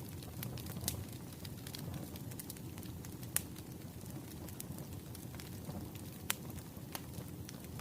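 Wood fire burning with a steady low rumble and scattered sharp crackles and pops, the loudest about a second in, in the middle and near the end.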